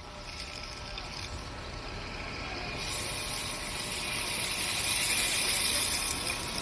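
Steady rushing and hissing of running water, growing louder about three seconds in.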